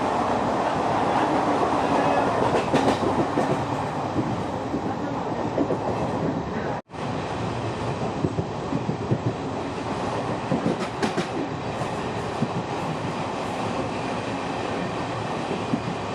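Indian Railways express train running, heard from on board: a steady rumble with wheels clacking over the rail joints. The sound drops out for an instant about seven seconds in.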